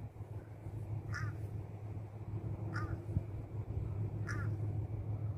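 A crow cawing three times, one short caw about every second and a half, over a steady low hum.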